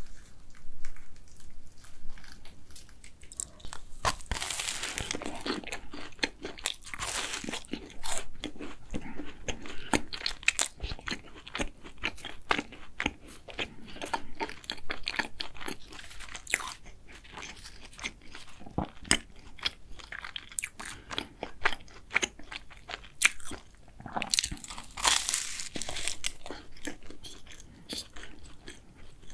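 Close-miked biting, crunching and chewing of a flaky matcha cruffin, its crisp laminated crust crackling between the teeth. The crunching is denser and louder about four seconds in and again near the end.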